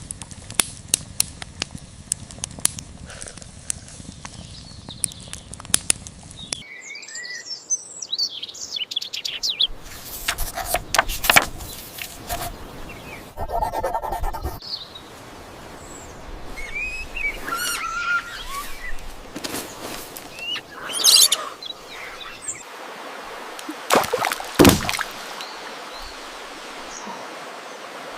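Birds chirping, with scattered sharp knocks and clicks; the first several seconds are a dense run of rapid clicks that stops abruptly.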